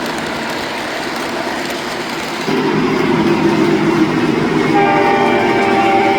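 Model train running on a layout's track with its locomotive's onboard sound. The sound gets louder about two and a half seconds in, and the horn sounds near the end.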